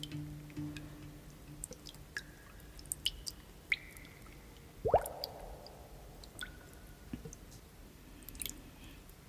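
Scattered water drips and plinks: sharp clicks and short ringing pings, with one louder plop that rises in pitch about five seconds in. The last of a plucked-guitar music track fades out in the first second.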